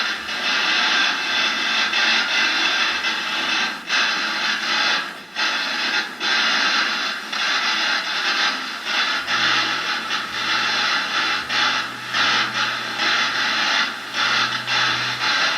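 Choppy radio static from a spirit box sweeping through radio stations: a loud hiss that cuts in and out several times a second. A low steady hum joins about nine seconds in.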